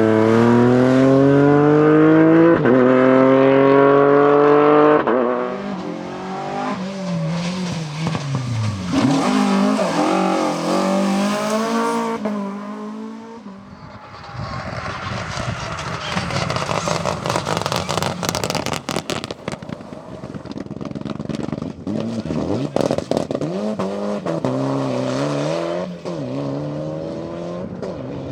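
Rally car engines at full throttle: the revs climb hard and shift through gears, then after a short lull about halfway through, engine sound picks up again with many sharp crackles and more revving near the end.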